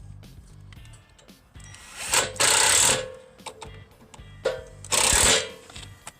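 Handheld power driver running in two short bursts, about two and five seconds in, driving fasteners into the sawmill's track sections.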